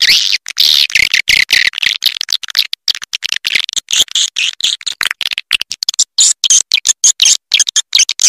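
Swiftlet twittering calls: a dense stream of high chirps and trills, chopped by frequent brief gaps, in the style of a recorded roosting lure call played to draw swiftlets into a nest house.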